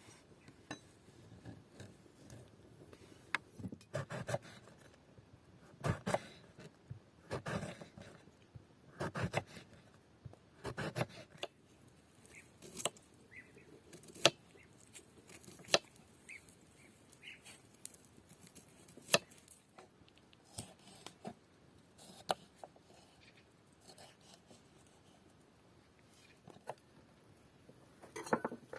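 Hand food preparation: irregular short cutting and knocking sounds, in clusters of several strokes through the first half, then scattered single sharp clicks.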